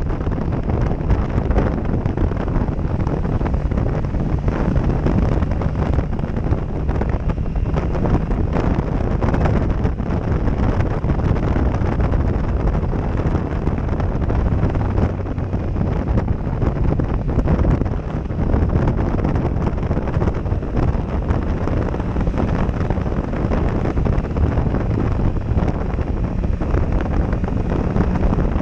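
Heavy wind buffeting on an action camera's microphone on a moving motorcycle, with the Yamaha MT-07 Tracer's parallel-twin engine running underneath at a steady cruise.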